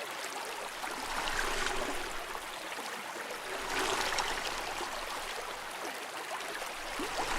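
Underwater ambience of bubbling, trickling water: a steady wash of gurgling with fine crackles that swells and eases every few seconds.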